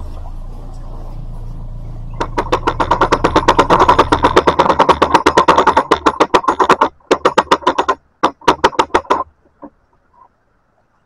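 Canal lock paddle gear's ratchet clicking rapidly and evenly, about ten clicks a second, as the paddle is wound with a windlass; near the end it breaks into short runs and stops. A boat's diesel engine idles with a low rumble underneath for the first few seconds.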